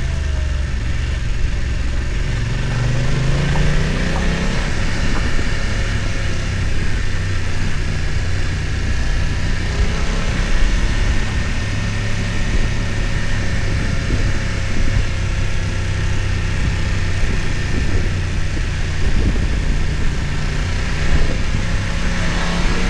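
BMW F900 XR's parallel-twin engine running under way, pitch rising as it pulls about two to four seconds in, then holding fairly steady, and rising again near the end.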